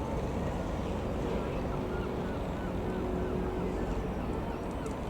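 Piper PA-28-161 Warrior II's four-cylinder Lycoming piston engine running with a steady drone and a faint steady tone above it, with wind noise on the microphone.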